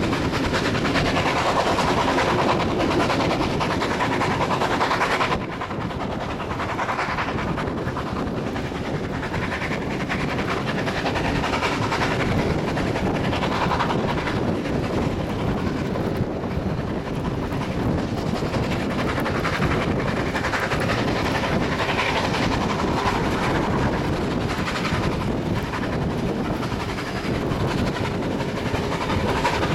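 Passenger train hauled by steam locomotive 3642 running along the line, heard from an open carriage window: a steady rush of wind and the rolling of wheels on rail. About five seconds in the sound drops a little and loses some of its hiss.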